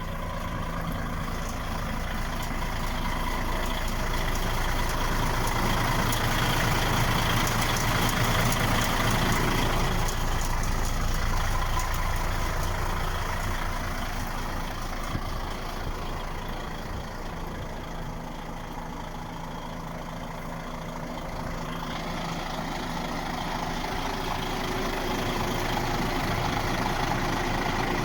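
DAF XF 95.480 truck's straight-six diesel engine idling steadily, its level slowly swelling and fading.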